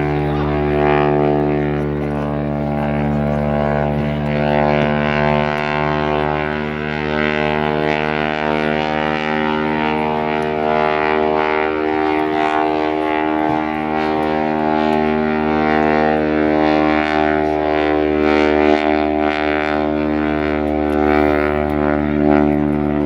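Aircraft engines running steadily, a constant droning hum that holds one pitch throughout.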